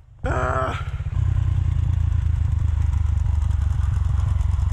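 Rieju Marathon Pro 125 dirt bike engine: a short rev falling off in pitch in the first second, then running steadily at a low, even note.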